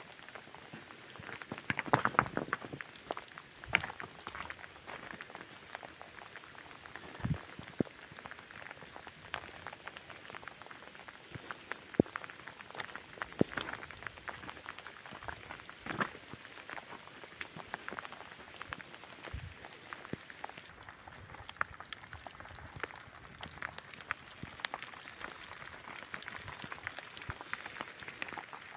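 Rain falling: a steady hiss of rain with many irregular drop taps, a few of them louder.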